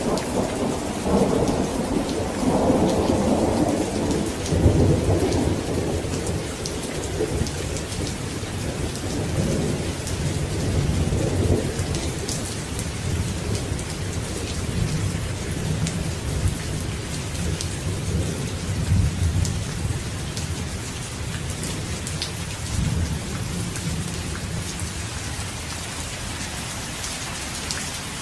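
Steady heavy rain with a long rolling rumble of thunder, loudest in the first few seconds and slowly fading away toward the end.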